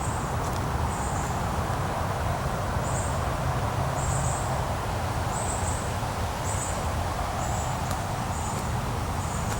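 Steady hum of distant freeway traffic. Over it, a short high chirp repeats about once every half second to a second.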